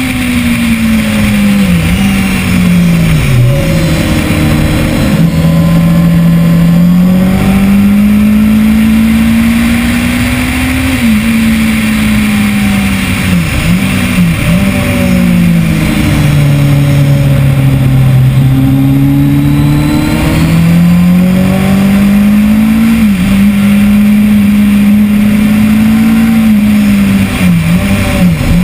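Kawasaki ZX-10R's inline-four engine, recorded on board at track speed, pulling hard through the gears. Its pitch climbs and then drops at each gear change, with clusters of quick dips and blips where it changes down for corners. The engine runs over a steady rush of wind noise.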